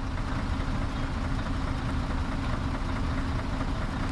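Mercedes truck's diesel engine idling steadily.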